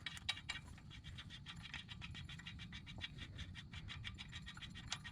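Ratchet wrench clicking in a quick, even run as the nut on a blind-hole bearing puller is snugged down inside a Ford 8.8 rear axle tube, setting the puller before the axle bearing and seal are pulled.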